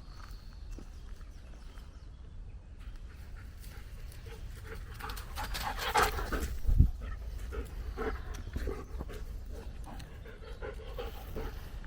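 German Shepherd panting close by in quick, even breaths that grow louder about a third of the way in, with a single dull thump about halfway through.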